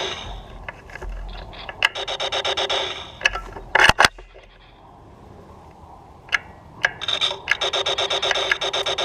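Laser tag blaster firing in rapid bursts: a buzzing electronic tone chopped into about nine pulses a second, once for about a second near two seconds in and again in a longer burst over the last two seconds. A few sharp clicks fall between the bursts, the loudest about four seconds in.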